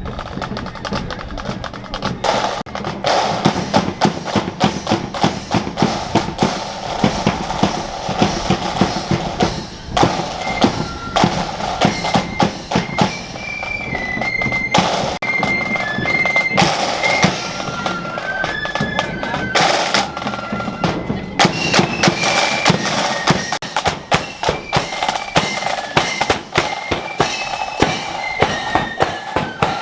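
Marching flute band playing: a high flute melody over rapid snare drumming and bass drum beats.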